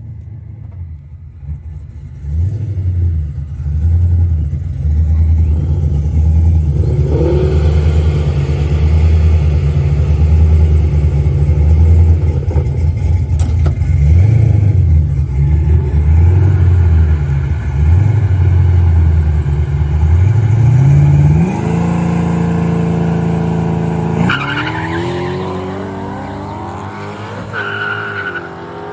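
Street drag cars' engines: a loud, low, wavering engine note held for most of the time. About two-thirds of the way through, the car launches and accelerates hard, its pitch climbing, dropping with a gear change, then climbing again as it pulls away and fades.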